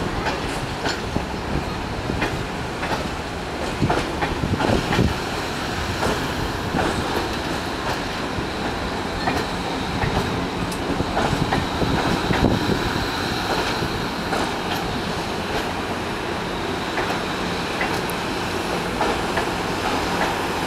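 Excursion train rolling past at close range: steady rumble of the wheels with repeated clicks and knocks over the rail joints, and a faint high wheel squeal in the middle.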